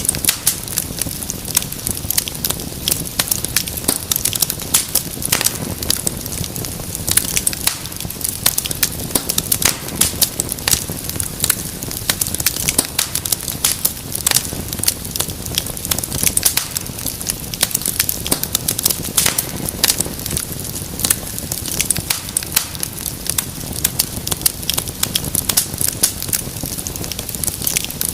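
Wood fire crackling steadily: many sharp, irregular pops and snaps over a low rumble and hiss of flames.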